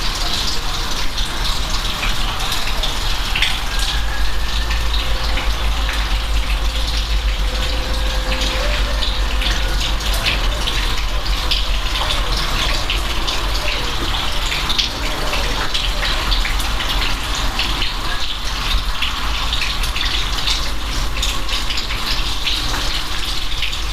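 Steady rain: a constant rush of water with many separate drops tapping close by, over a low rumble.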